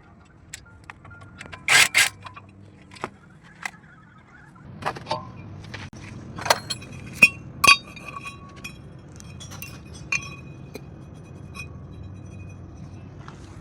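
Metal tools and parts clinking and knocking, a string of sharp separate taps, several of them ringing briefly, over a low steady hum.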